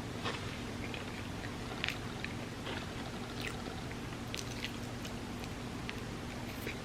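Close-miked mouth sounds of eating soft, creamy crepe cake: scattered small wet clicks and squishes of chewing, over a steady low hum.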